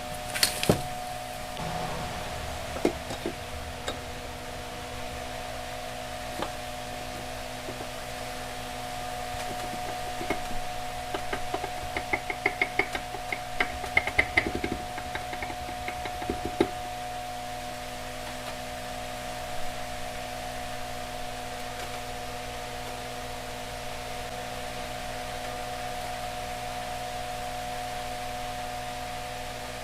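Scattered knocks and clicks of metal engine parts and tools being handled during an engine rebuild, with a quick run of clicks near the middle, over a steady hum.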